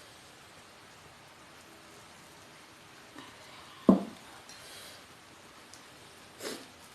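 Eating utensils knocking against a dish or pan: a few short clacks, one sharp and loud about four seconds in, over a faint steady hiss.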